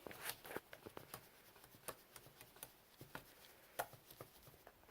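Faint, irregular clicking and tapping of typing on a computer keyboard, a few keystrokes a second, with one sharper click a little before the end.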